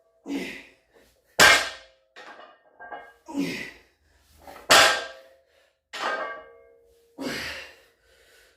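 A loaded barbell with metal plates touching down on the floor between deadlift reps. Each touchdown is a sharp clang with the plates ringing briefly, three heavy ones about three seconds apart, with softer knocks as the bar leaves the floor in between.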